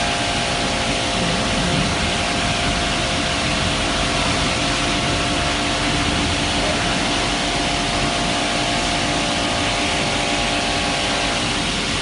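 CNC milling machine semi-finishing a bottle-feed timing screw with continuous 4th-axis interpolation: the spindle and cut make a steady whine of several tones over a constant rushing noise, without breaks.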